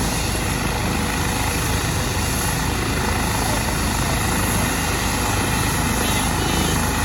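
Helicopter running on the ground with its rotor turning: a loud, steady whir of engine and rotor blades.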